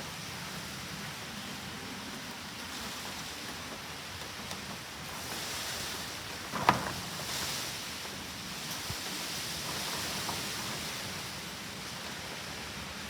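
Steady hiss of typhoon rain, swelling louder twice, with one sharp knock about halfway through.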